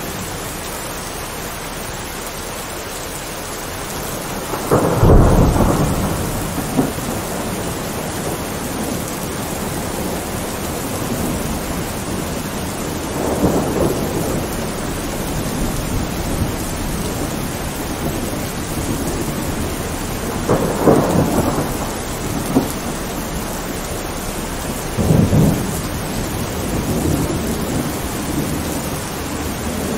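Steady heavy rain with thunder rumbling four times, the loudest clap about five seconds in and the others around 13, 21 and 25 seconds.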